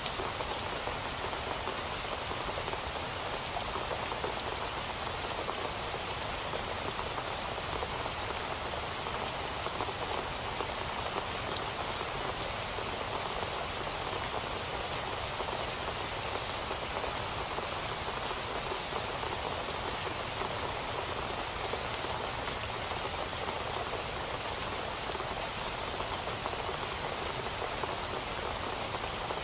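Steady rain falling, an even hiss of drops on a surface with fine scattered patters of individual drops, unchanging throughout.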